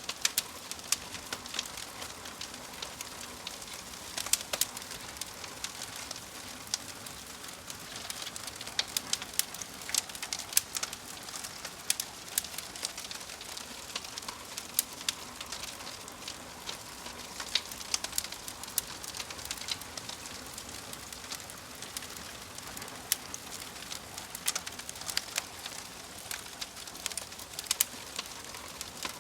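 Wood fire crackling: many sharp, irregular pops and snaps over a steady hiss.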